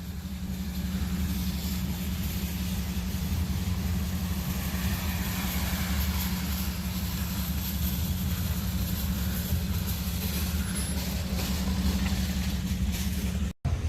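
Steady low rumble of a running vehicle engine, unchanging throughout, with a brief dropout near the end.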